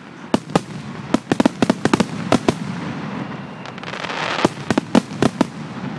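Fireworks display: a rapid series of sharp bangs from bursting shells in the first two and a half seconds, a crackling hiss about four seconds in, then another cluster of bangs.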